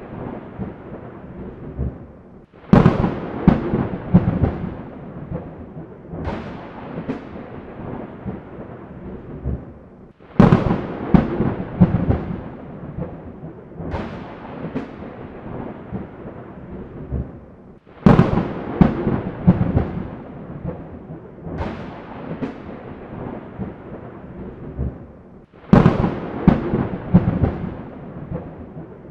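Thunderclaps in an even repeating cycle: seven in all, each a sudden crack followed by a rumble that fades over a few seconds. They come about every four seconds, and every other one is louder.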